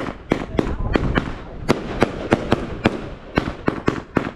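Fireworks going off in a rapid, irregular series of sharp bangs, several a second, each followed by a short echo over a continuous rumble of further explosions.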